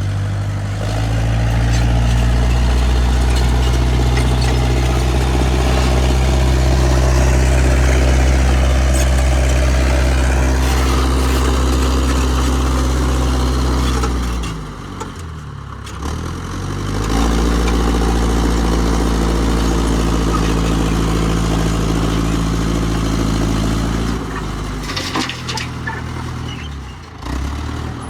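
International 125 crawler loader's engine revving up and holding at high revs. It drops back toward idle about halfway through, revs up again, then eases off and varies near the end.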